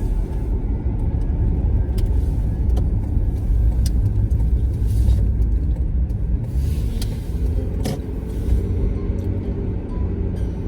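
Steady low road and engine rumble inside a moving car's cabin, with a few brief clicks.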